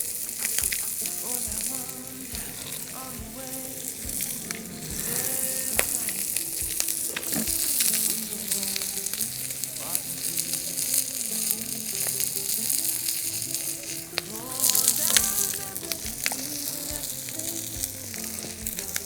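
Chicken sizzling hard on a thick steel griddle heated by a Swedish torch log fire at full heat, with frequent small pops of spattering fat.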